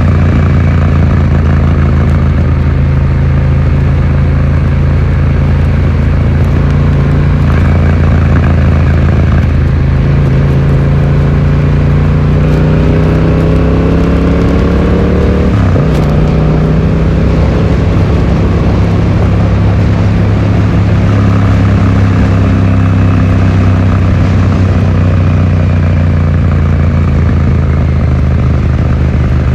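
Yamaha XSR700's 689 cc parallel-twin engine running through an Akrapovic exhaust while riding, heard from a phone in the rider's pocket. Steady at first, it rises in pitch from about ten seconds in, drops sharply at a gear change around sixteen seconds, then settles back to a steady cruise.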